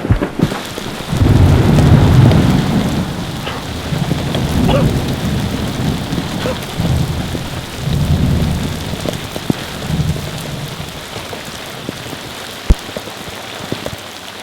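Steady rain with repeated low rolls of thunder, the strongest roll about two seconds in.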